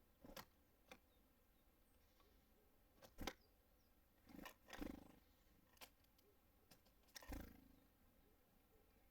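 Small birds at a wooden feeder: a scatter of irregular knocks, taps and soft thumps as they land, hop and peck at seed, with stretches of near silence between.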